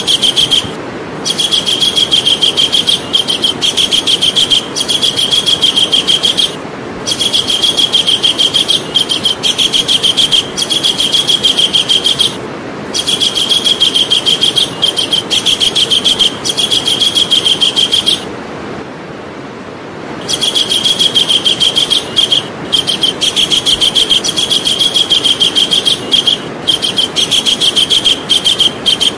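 Javan kingfisher calling: long runs of rapid, evenly repeated high notes, broken by short pauses every few seconds and a longer pause about two-thirds of the way in. A steady hiss runs underneath.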